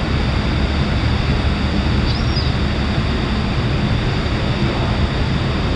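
Car ferry's engines running during departure: a steady low rumble with a hum.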